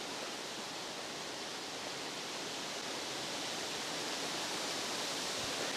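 Steady, even hiss of outdoor background noise with no distinct events, growing slightly louder toward the end.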